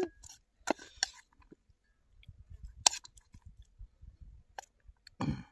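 A person chewing a mouthful of food close to the microphone, with a handful of separate sharp clicks and taps as a plastic spoon scoops in a ceramic bowl.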